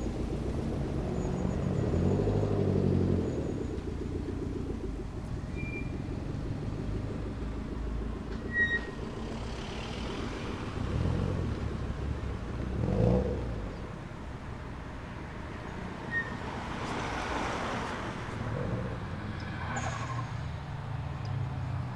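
Car engines running steadily at idle, swelling louder about two seconds in and again around thirteen and seventeen seconds, with a short sharp sound near nine seconds.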